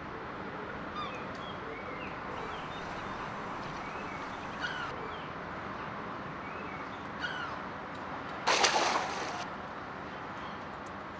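Small birds chirping in short, quick notes over a steady outdoor hiss, with a loud rush of noise lasting about a second around three-quarters of the way through.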